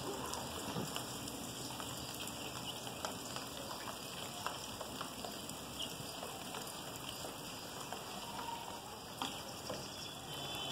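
Rain falling steadily on a flat concrete rooftop: an even hiss dotted with many separate drop ticks.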